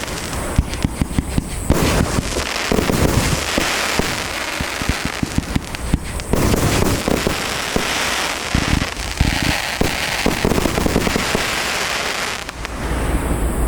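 A 30 mm compound firework cake firing rapid salvos: many quick shots and aerial bursts in close succession, over a continuous noisy haze.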